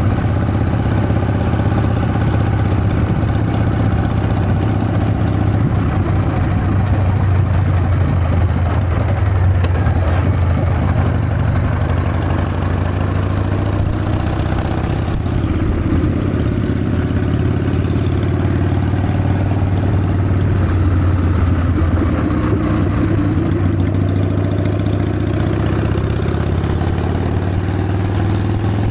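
Harley-Davidson Sportster XLH's air-cooled V-twin engine running steadily under way, its pitch drifting gently up and down with the throttle.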